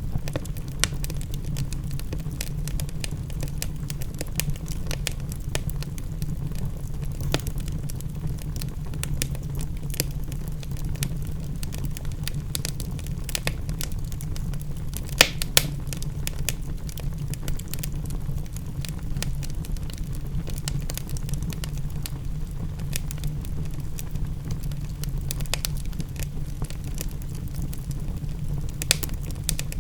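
Wood fire crackling, with scattered sharp pops, the loudest about fifteen seconds in, over a steady low rumble.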